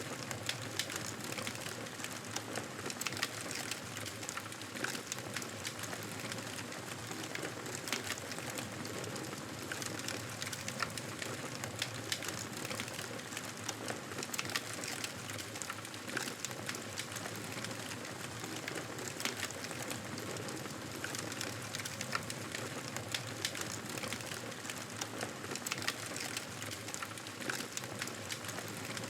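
Wood fire crackling steadily, with frequent small sharp pops over a soft even hiss.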